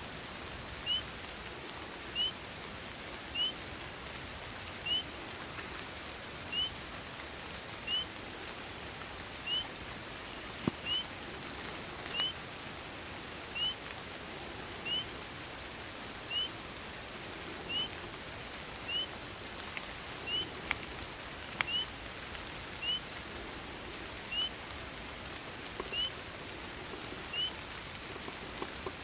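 Night forest ambience: a steady hiss of rain and wind, with one short, high, rising chirp repeated evenly about every second and a half, and a few faint drips or clicks.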